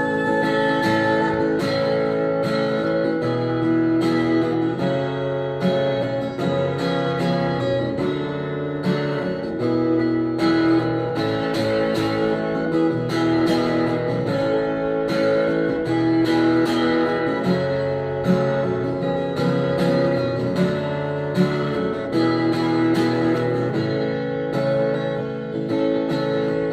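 Instrumental break of a slow ballad led by guitar, with plucked and strummed notes over sustained chords and no singing.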